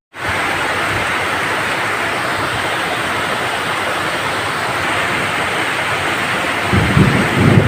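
Steady heavy rain, a dense even hiss that starts abruptly. Near the end a low rumble of thunder sets in under it.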